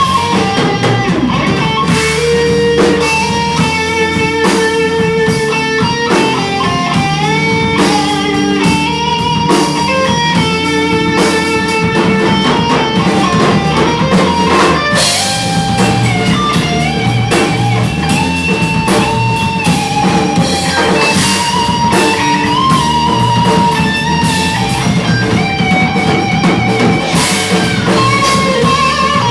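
Live band music: an electric guitar plays a lead melody of held, bending notes over a drum kit.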